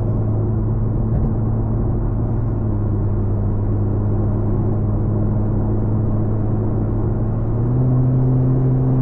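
Infiniti Q50 engine and exhaust running at steady highway cruise as a low, even drone, heard from inside the car. Near the end the pitch steps up a little and gets slightly louder as the revs rise.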